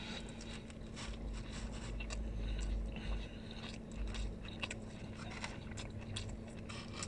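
A person chewing a mouthful of chicken taco with a firm, doubled-up shell: soft, irregular mouth clicks and faint crunching.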